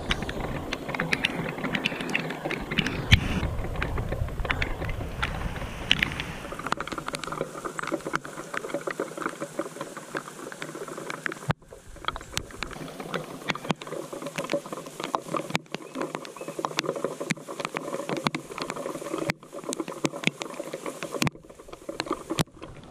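Steady rain falling, pattering, with many sharp ticks of drops landing close by.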